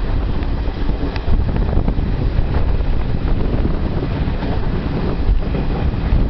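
Passenger train running at speed, heard from its open doorway: steady rumble of the coach on the rails under heavy wind buffeting the microphone.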